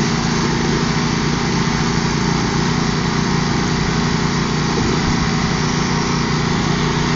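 The engines of two riding lawn tractors, a Craftsman and a Troy-Bilt, running together at a steady pitch as the tractors pull against each other.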